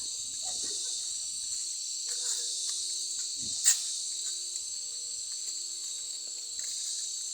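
Insect chorus: a steady high-pitched buzzing trill. A single sharp click comes a little past the middle.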